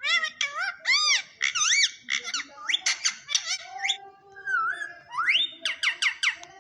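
Pet parrot giving a rapid run of squeaky whistles and chirps: many short notes arching up and down in pitch, with a long rising whistle about five seconds in.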